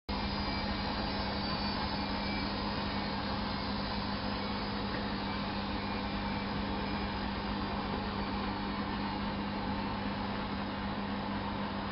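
Miele Softtronic W 204 washing machine running steadily, a constant motor hum with an even whirring noise over it.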